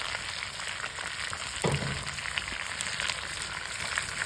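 Chicken pieces with onion and garlic sizzling steadily as they fry in oil over a wood fire. There is a brief low sound about a second and a half in.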